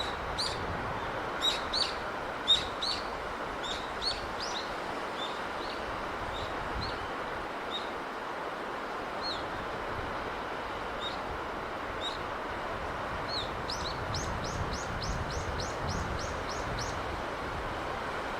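Steady wash of sea breeze with small birds chirping over it. The chirps are short and high, loudest in the first few seconds, with a quick even run of about a dozen near the end.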